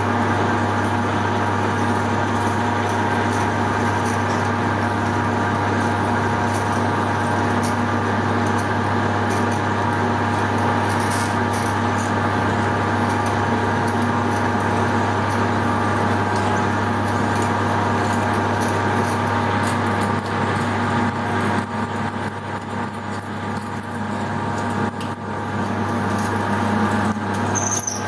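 Hare and Forbes AL335 metal lathe running steadily with an 11 mm drill cutting into steel stock from the tailstock. From about two-thirds of the way through, the sound turns uneven and choppy, with brief dips in level.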